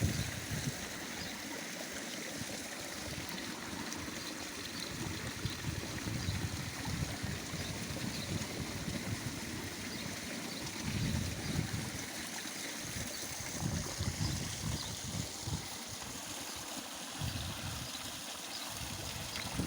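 Water flowing steadily down a garden pond's stone waterfall and splashing into the pool, with low rumbles coming and going now and then.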